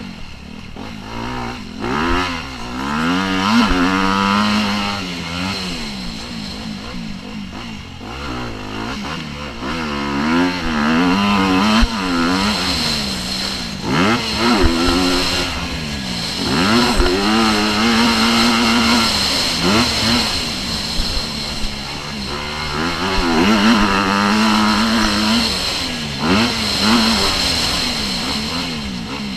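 Motocross bike engines revving hard, the pitch climbing and dropping again and again as the throttle opens and shuts through the race. A few short thumps are mixed in.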